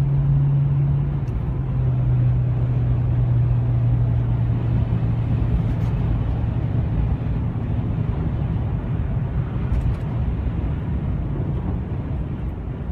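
Steady engine drone and road noise inside a moving vehicle. The low hum steps down slightly in pitch about a second in and fades out about halfway through, leaving the road noise.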